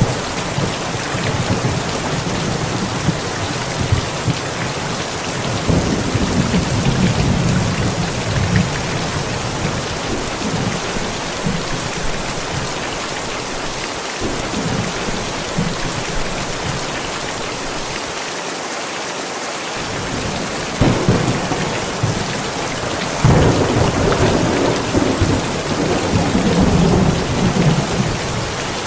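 Steady rain falling, with rolling thunder rumbling low several seconds in and again, louder, in the last few seconds.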